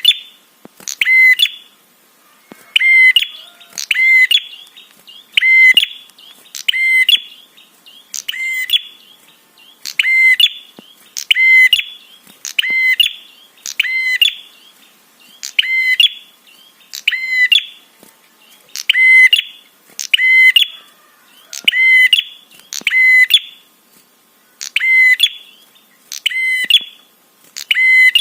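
Prinia (prenjak) calling: a loud, buzzy, rattling note repeated about once a second, mostly in pairs with short pauses, used as a lure call to provoke other prinias.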